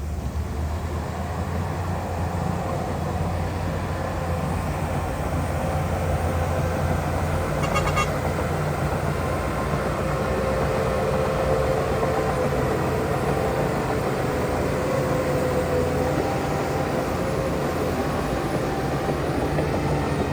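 Heavy diesel engine of earthmoving machinery running steadily under load, with a brief high-pitched sound about eight seconds in.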